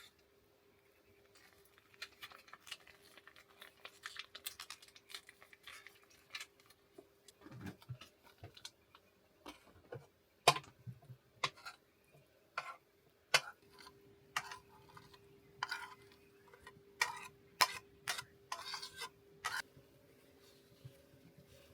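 Irregular light clicks, taps and clatters of small hard objects being handled, over a faint steady hum.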